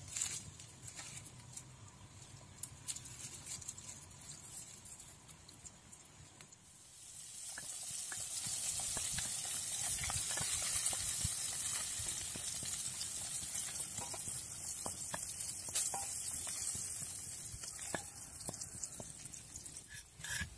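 Whole fish frying in hot oil in a wok, sizzling steadily from about a third of the way in, with occasional clicks of a metal spatula against the pan.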